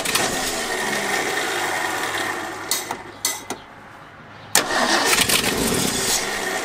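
1974 Ford F350's 460 V8 running on fresh fuel, fading out and stalling about three seconds in, then cranked and catching again a second or so later. With the key switched off, it fires only while the key is held in the crank position, on the 12-volt crank feed to the coil.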